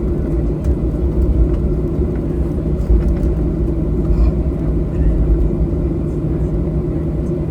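Steady low rumble and hum inside the cabin of a Boeing 737-800 on the ground before takeoff, its CFM56-7B engines running at low power.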